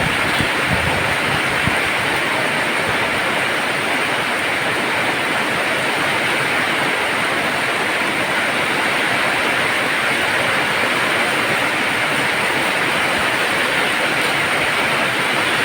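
Heavy rain falling in a steady downpour, a constant loud hiss, with a few soft knocks in the first couple of seconds.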